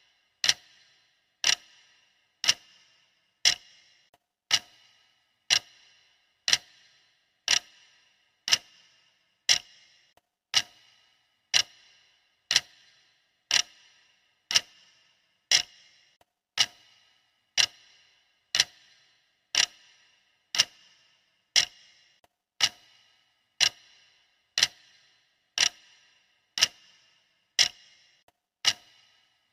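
Clock ticking steadily at one tick a second, each tick a sharp click with a brief ring.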